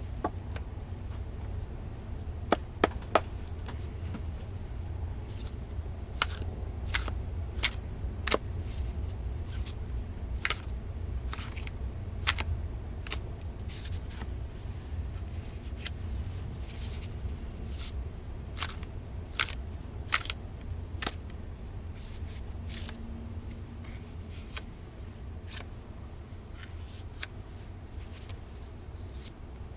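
Tarot cards being shuffled and handled: irregular sharp snaps and flicks of card stock, over a steady low hum.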